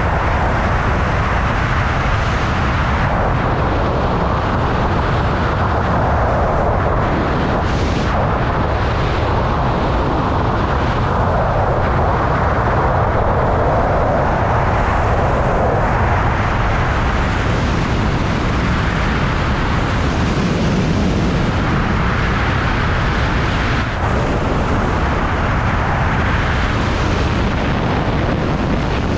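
Loud, steady rush of wind buffeting the microphone during a wingsuit flight, a continuous roar with no break.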